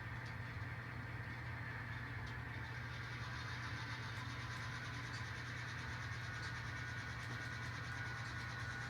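Sound decoders in N scale model diesel locomotives playing a steady diesel engine sound with the dynamic brake blowers running, through the models' small speakers, as the train coasts under dynamic braking.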